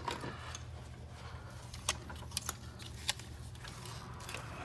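A few small, sharp plastic clicks and taps as a wiring-harness clip is worked loose by hand, over a low steady hum.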